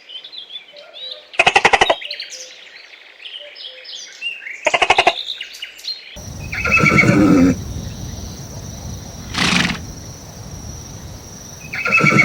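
Farm animals calling: two short, quavering calls with small bird chirps between them, then longer calls over a steady high-pitched hiss.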